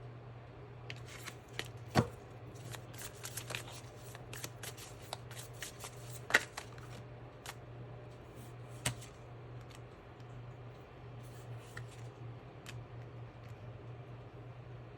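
Tarot cards being shuffled and handled: a quick patter of card clicks through the first half, with three louder sharp taps, over a steady low hum.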